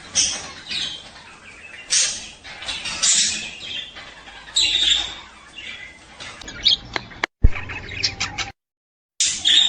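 Budgerigars chattering in short, repeated chirps and squawks. A sharp click comes about seven and a half seconds in, and the sound cuts out completely for a moment before the chirping resumes near the end.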